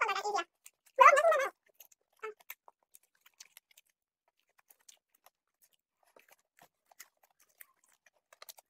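Popcorn being chewed close to the microphone: scattered soft crunches and mouth clicks. A short burst of voice comes about a second in and is the loudest sound.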